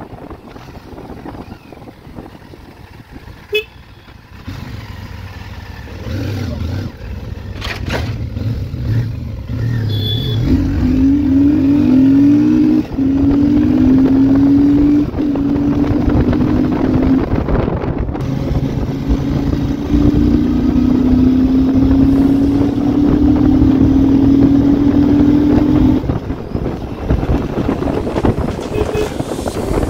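Royal Enfield Super Meteor 650's 648 cc parallel-twin engine pulling through the gears: quiet for the first few seconds, then louder, its pitch climbing in each gear and dropping back at each upshift.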